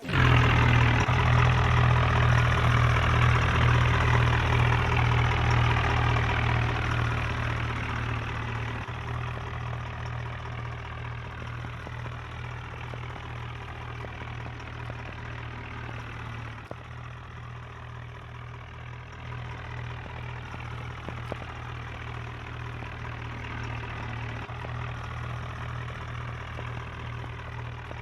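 Tractor diesel engine running with a steady low hum, loud at first, then easing off and quieter over the first ten seconds or so before holding steady.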